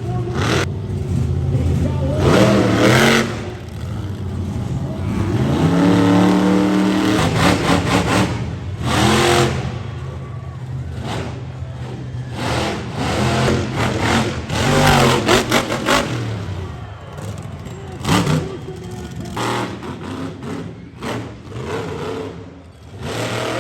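Monster truck engine revving hard again and again, its pitch climbing and falling, with sharp noisy surges throughout.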